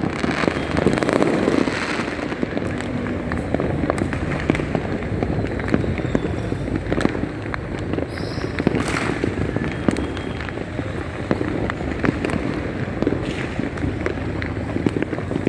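Continuous barrage of fireworks and firecrackers: many overlapping bangs and pops over a steady crackling din, with no break.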